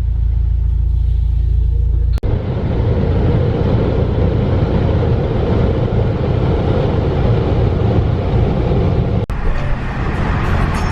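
A car's steady low rumble, then after an abrupt cut about two seconds in a louder rushing noise of the car under way, broken by another abrupt cut near the end.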